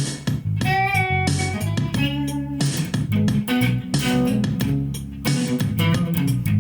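Instrumental break of a swingy blues shuffle: electric guitar playing a lead line over a bass line, with no singing.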